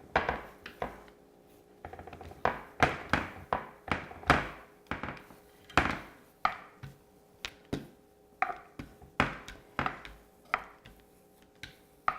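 Small baker's roller rolling pizza dough out on a stoneware bar pan: a string of irregular dull thunks and taps, about one or two a second.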